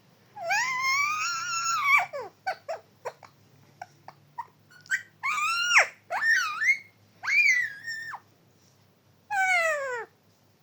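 Pet parrot calling: a long call that rises and then falls in pitch, a string of short chirps, then four more calls, the last sliding down in pitch.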